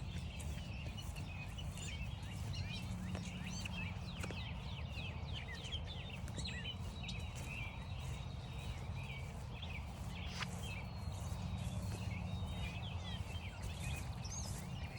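A chorus of several wild birds singing and calling at once: many quick chirps and sweeping notes overlapping, over a steady low rumble.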